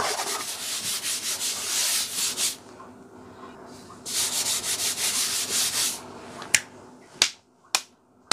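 Hands rubbing and sweeping across a tabletop in two stretches of quick, even strokes, followed by three sharp clicks near the end.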